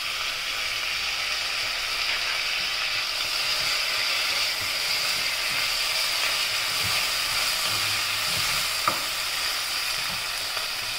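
Onions, green chillies, mint and coriander sizzling in oil in a stainless steel pressure cooker while being stirred with a spatula: a steady frying hiss. One sharp click comes near the end.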